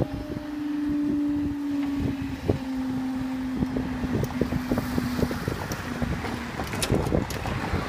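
A train passing over the level crossing, its wheels clacking over the rail joints while a steady motor hum slowly drops in pitch and fades out about six and a half seconds in. Wind buffets the microphone.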